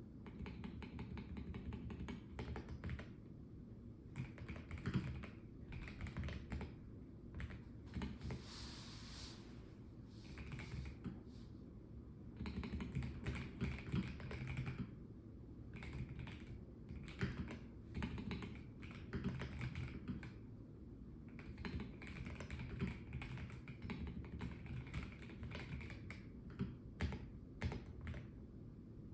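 Typing on a Melgeek Mojo84 mechanical keyboard with a plastic case: runs of quick key clicks with a few short pauses, over a steady low hum.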